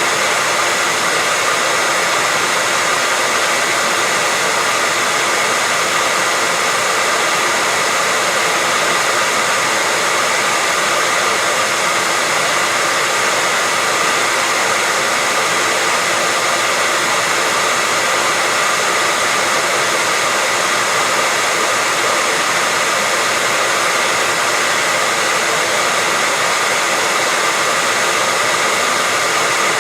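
Hair dryer running steadily: a constant rush of blown air with a faint even whine from its motor, unchanging throughout.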